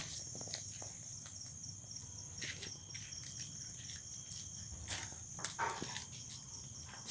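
Crickets chirring steadily, with a few short louder sounds about five and a half seconds in.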